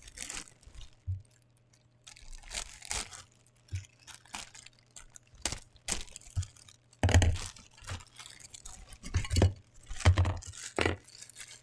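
A figurine's packaging being handled and torn open: irregular tearing and crinkling of plastic and cardboard with light clinks, and a couple of louder knocks about seven and ten seconds in.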